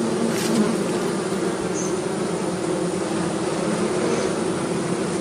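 Bees buzzing, a steady, continuous hum of many bees flying close by.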